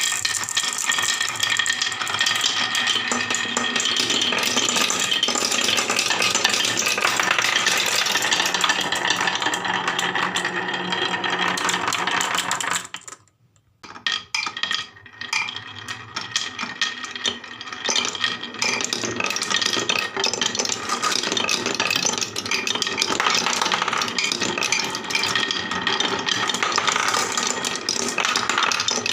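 Many marbles rolling and clattering down a HABA wooden marble run, a dense, continuous rattle of small clicks. It breaks off for about a second near the middle, then starts again.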